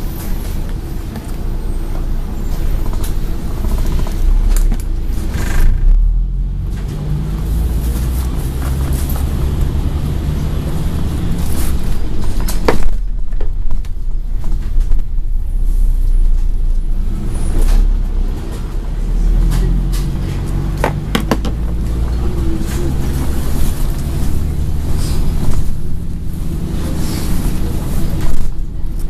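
Scania N113 bus heard from inside the cabin while under way. The engine rumble steps up and down in pitch several times as the bus accelerates and eases off, with occasional clicks and rattles from the body.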